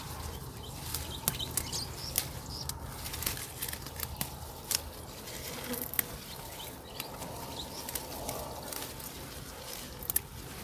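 Leafy vegetable plants rustling, with irregular sharp snaps and crackles, as leaves and stems are picked by hand.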